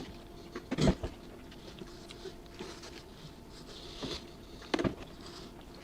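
Eating sounds: faint chewing and handling of food, with two sharp knocks, one about a second in and one about five seconds in.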